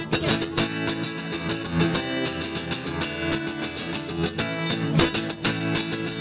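Instrumental break in a live rock song: a guitar strumming a steady rhythm with sustained chords, no vocals.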